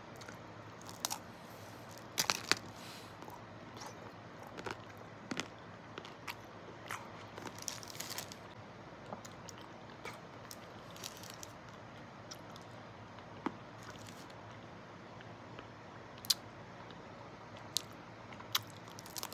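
Biting and chewing a frozen chocolate-dipped banana coated in nuts: irregular crisp crunches of the chocolate shell and nuts, the loudest about two seconds in and around eight seconds, with quieter chewing clicks between.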